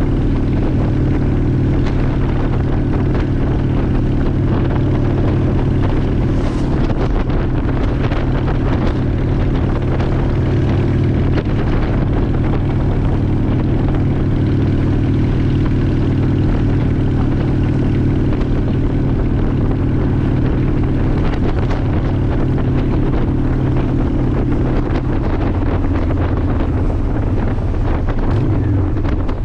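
2002 Honda Shadow ACE 750's V-twin engine running steadily while riding, with wind noise on the microphone. The engine note dips lower near the end.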